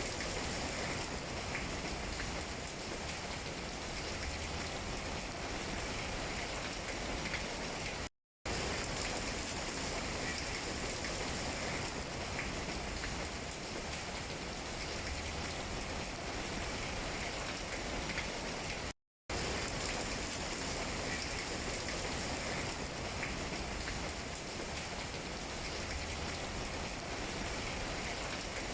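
Steady rain falling on tree leaves, an even hiss. It cuts out to silence for a moment twice, about 8 and 19 seconds in.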